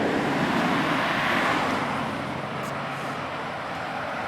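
A car driving past, its tyre and road noise swelling over the first second or so and then fading away.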